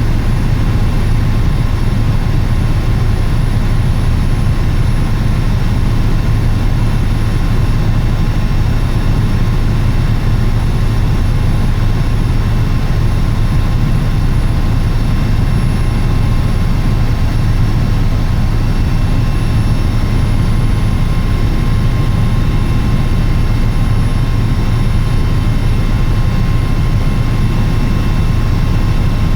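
Helicopter running steadily in flight: a loud, even engine and rotor drone with a deep hum that does not change.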